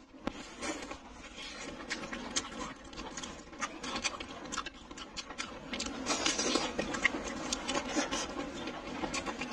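Close-miked chewing of a sausage: irregular wet mouth smacks and clicks, a little denser past the middle.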